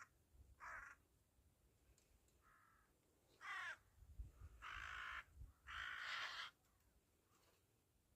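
A flock of crows cawing faintly, about five separate caws, the last two longer and louder.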